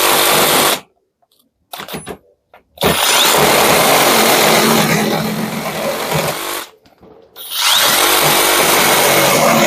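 Parkside Performance PSSAP 20 28 A1 cordless brushless reciprocating saw cutting a 4 by 4 cm piece of wood in starts and stops. It runs briefly, stops for about a second, gives a few short blips of the trigger, then makes a long cut of about four seconds. After a short pause it cuts again near the end.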